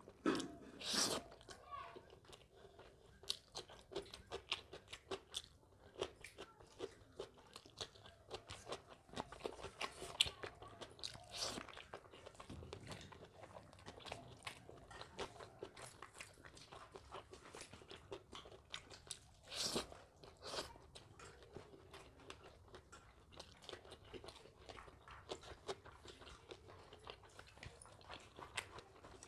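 A person chewing and crunching food close to the microphone: a steady run of small mouth clicks, with a few louder crunching bites near the start, about ten seconds in and around twenty seconds in.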